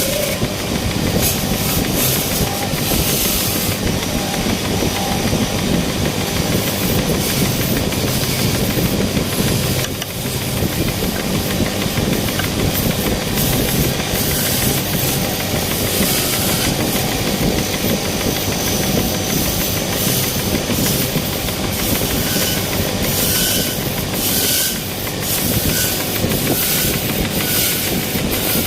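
Wood lathe running while a cutting tool shaves the spinning wood, a steady hiss with many irregular clicks of the tool catching the blank.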